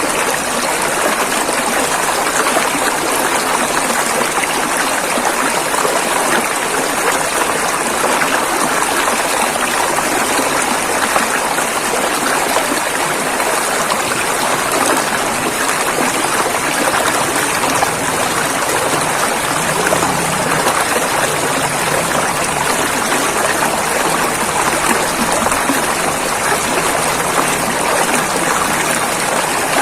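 River water running steadily over rapids: a continuous, even rush of flowing water.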